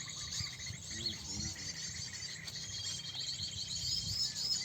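A crowd of small birds chirping and calling over one another in quick, overlapping notes, with a steady thin high trill running through part of it.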